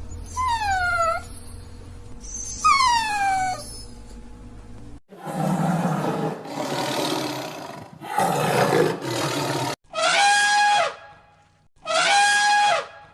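Calls of several different wild animals, cut together one after another: two falling, whistle-like calls, then a few seconds of harsh, rough calls, then two repeated calls of about a second each, held on one pitch.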